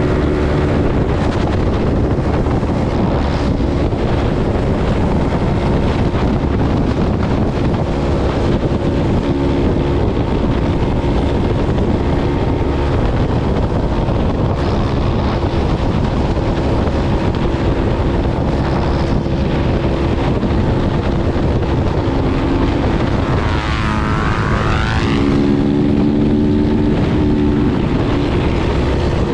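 Motorcycle engine running while riding at speed, its note coming and going under heavy wind rush on the microphone. A brief falling-then-rising whine sounds near the end.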